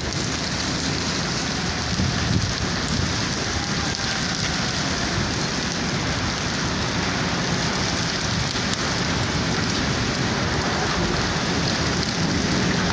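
Heavy rain pouring steadily, splashing on wet ground.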